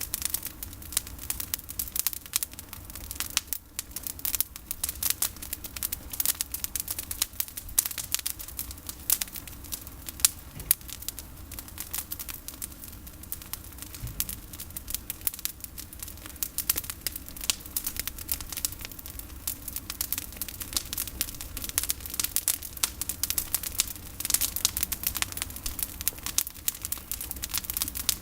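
Campfire of pruned olive branches burning, crackling with a dense run of irregular sharp pops and snaps.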